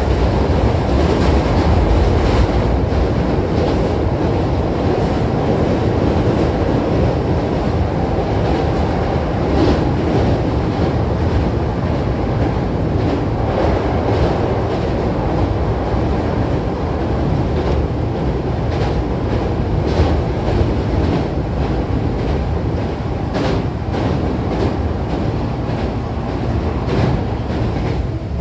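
Running noise of a Hankyu 8300 series electric train heard inside the passenger cabin: a loud, steady rumble from the wheels and running gear, with sharp wheel clicks over the rails at irregular intervals.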